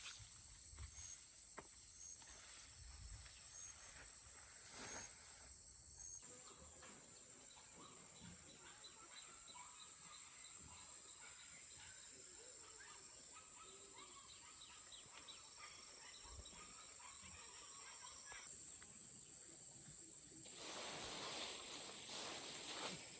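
Faint countryside ambience: a steady high insect drone with short repeated chirps and faint bird calls. A soft rustling hiss comes up near the end.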